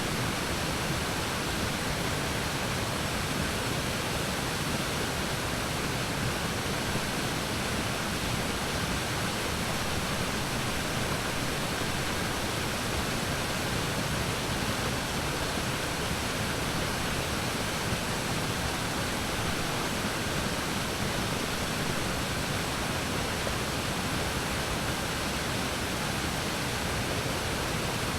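Waterfall on a river, the falling water making a steady, even rush that does not change.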